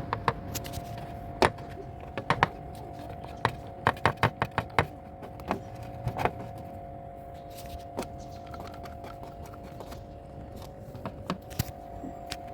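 Irregular sharp clicks and clinks of metal being handled, in a quick cluster in the first half and a few more near the end, over a steady hum.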